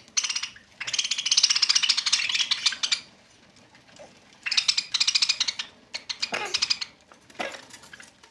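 Parrots squawking as they squabble over food, in three bursts of rapid chattering calls: the first about two seconds long, the next two shorter and close together.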